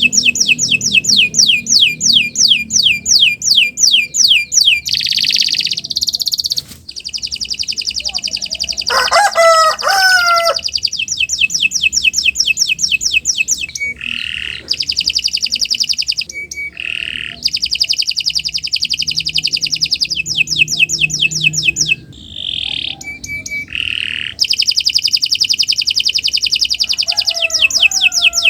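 Domestic canary singing a long, continuous song of rapid trills: fast runs of repeated downward-sweeping notes and buzzy rolls, broken by short pauses. A lower chirping call from another bird cuts in briefly about nine seconds in, and again near the end.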